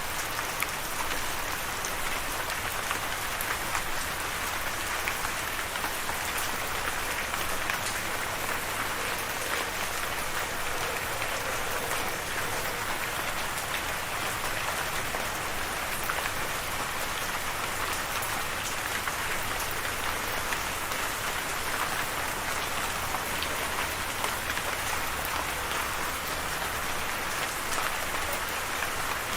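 Steady rain falling, an even hiss with the fine ticks of individual drops striking a surface.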